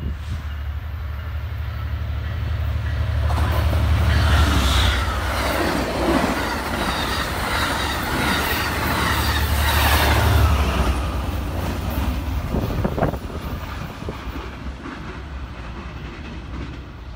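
Amtrak passenger train passing a platform at speed: a low locomotive drone builds, then the steady rush and clatter of wheels on rail as the cars go by. The sound drops off sharply about three-quarters of the way through, leaving a quieter rumble.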